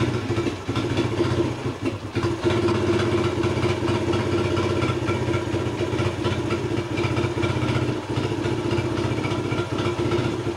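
An engine running steadily at around idle, with a brief dip in level about two seconds in.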